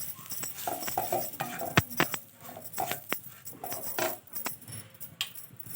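Metal spoon scraping and clinking against a cooking pan while stirring spice powder into frying onions, with several sharp clinks about two and three seconds in.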